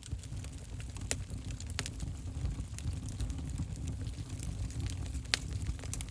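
Wood fire burning in a fireplace: a steady low rumble of flames with scattered sharp crackles and pops, the loudest pop about five seconds in.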